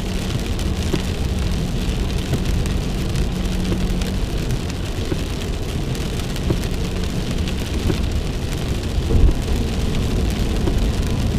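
Heavy rain on a moving car, heard from inside the cabin over the low rumble of the car and its tyres on a flooded road. A louder thump comes about nine seconds in.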